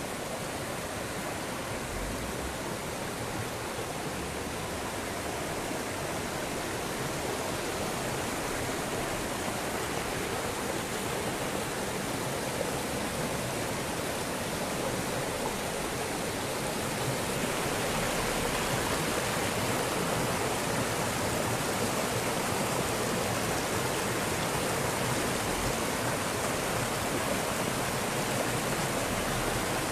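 Fast-flowing floodwater from overflowing hillside drains rushing across and down a road, a steady rush that gets a little louder a little over halfway through.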